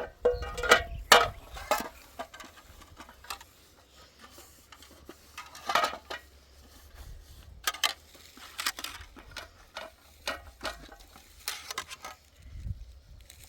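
Irregular clinks and knocks of hard objects being handled, some ringing briefly, loudest near the start and again around the middle, over a low rumble.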